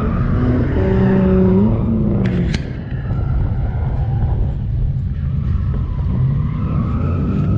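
Ford Mustang's engine running with a low rumble as the car rolls slowly forward, with a brief rise and fall in pitch about one and a half to two and a half seconds in. Two short clicks come about two and a half seconds in.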